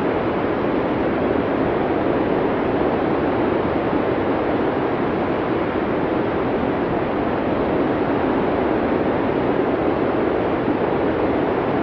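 Blizzard wind blowing as a steady, even rush of noise, deep and muffled, with no gusts or breaks.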